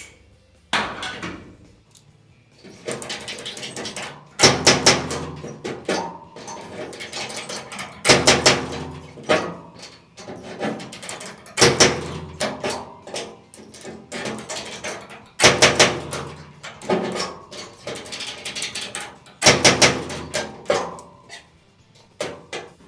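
Hammer blows on a steel body panel, struck in uneven runs with the metal ringing after each hit, as the wheel-arch repair panel is worked out and shaped to fit.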